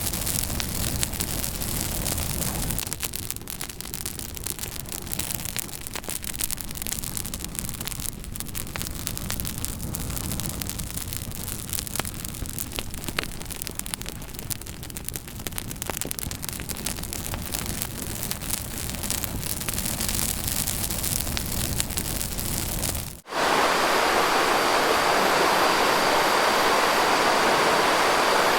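Campfire burning with a low rumble and scattered sharp crackles and pops. Near the end the sound cuts off abruptly and a louder, steadier rushing noise with a faint high whine takes over.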